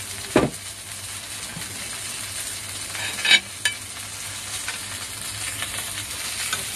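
Flour-dusted sardine fillets sizzling steadily in oil in a frying pan. There is a thump about half a second in, and chopsticks clatter against the pan about three seconds in.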